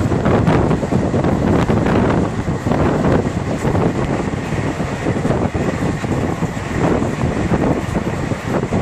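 Passenger train running fast, heard from an open coach window: a steady rumble of wheels on the rails, with heavy wind buffeting the microphone.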